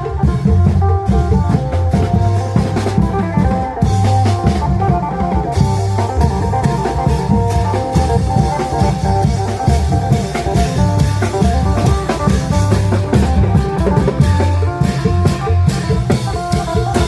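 Isan klong yao long-drum ensemble playing a lively procession tune, with a plucked phin melody over steady, driving drum beats.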